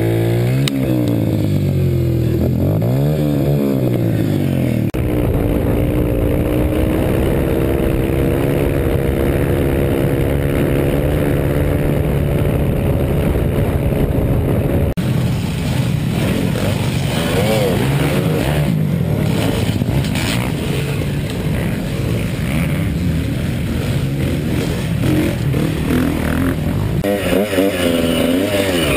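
Dirt bike engines running and revving. The engine pitch rises and falls in the first few seconds, then holds steadier, and the sound changes abruptly a few times.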